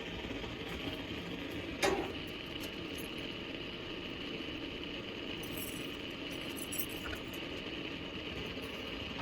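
A steady mechanical drone with a single sharp metallic clink about two seconds in.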